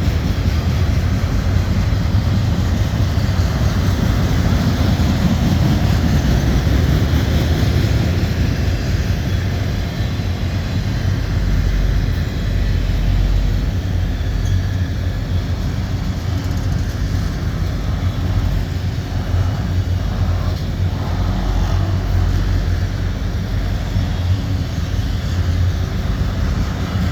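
Long freight train of autorack cars rolling past: a steady, loud rumble of steel wheels on the rails.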